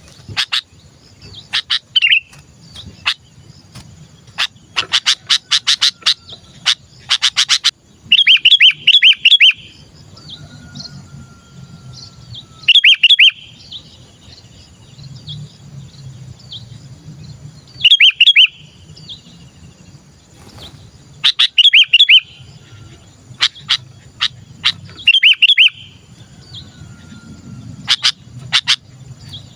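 Sooty-headed bulbul calling: loud bursts of rapid chattering notes every few seconds, with sharp single ticks and short note runs between them, over a faint low hum.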